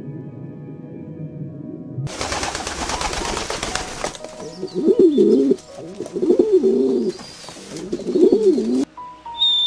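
A bird's low cooing calls, three bending phrases about a second apart, after a couple of seconds of soft music and a burst of hiss.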